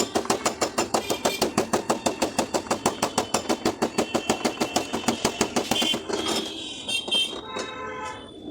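Rapid, even tapping on a car door panel during paintless dent repair, about seven light strikes a second, that stops about six seconds in. After that comes a fainter sustained pitched tone.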